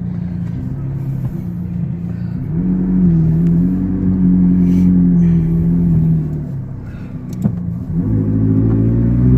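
McLaren sports car engine accelerating hard, heard from inside the cabin: the engine note climbs about two and a half seconds in, eases off past the middle, then pulls up again near the end.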